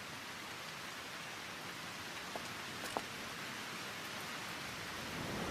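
Steady hissing noise, with a faint click about three seconds in.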